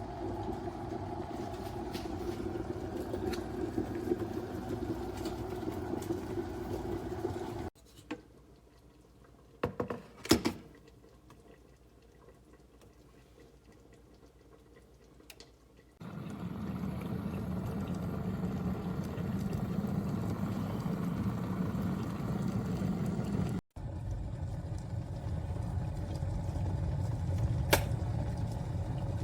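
Electric glass kettle heating water: a steady rumbling hiss, broken by a few sharp clicks about eight to ten seconds in, then a lower steady rumble again.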